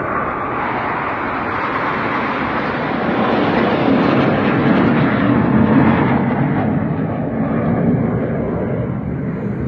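Jet noise from a Dassault Rafale fighter's twin turbofan engines as the aircraft passes. It is a loud rushing sound that builds to a peak about halfway through, deepens in pitch as it goes, and eases off near the end.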